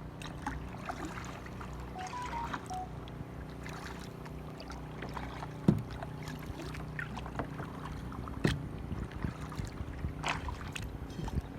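Kayak paddling through floodwater: paddle dips and splashes, with a few sharp knocks. Under it runs a steady low hum.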